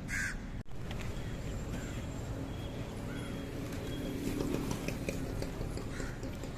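Outdoor street background noise: a steady low rumble and hiss with a few faint short sounds, a brief sharper sound at the very start and a momentary dropout just after it.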